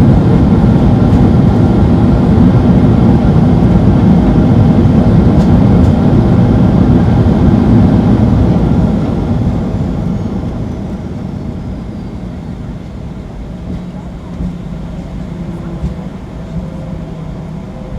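Cabin noise on board a Boeing 737-800 slowing down on the runway after touchdown: a loud, steady rumble that dies away about nine seconds in as the jet decelerates, leaving a quieter hum with a few light knocks.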